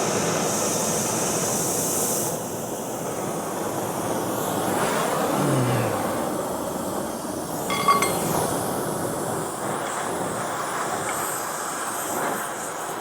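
Oxy-acetylene torch flame running with a steady rushing hiss while it heats a steel rod for bending. The hiss is sharper for the first couple of seconds, and a short metallic clink sounds about eight seconds in.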